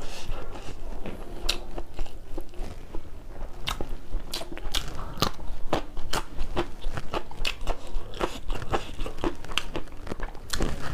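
Close-miked chewing of crisp raw vegetables: many sharp crunches in quick, irregular succession, with wet mouth sounds between the bites.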